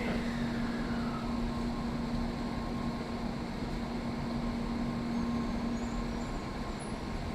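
Tokaido Shinkansen N700A trainset humming steadily: an even noise under a steady low tone that drops out about six seconds in.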